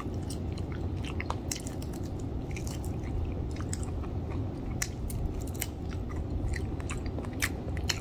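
Close-up chewing and biting of crispy fried chicken wing, with many small irregular crunches and clicks.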